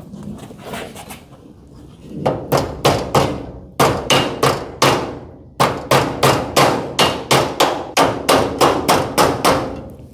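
Hammer blows on metal garage door hinge hardware, about three a second in three runs with short pauses between, each strike ringing briefly.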